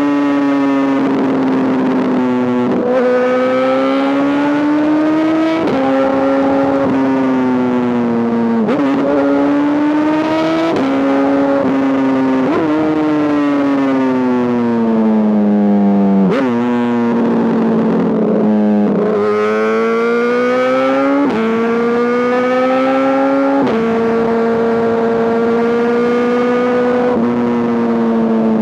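2005 Honda CBR1000RR's inline-four engine through an SC-Project exhaust, running under load with its pitch rising and falling, and sudden jumps in pitch every few seconds as gears change.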